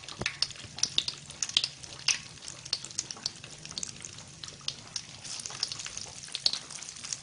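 Beef jerky patties of beef, grated coconut and rice flour deep-frying in hot oil in a wok: a steady sizzle with irregular crackling pops.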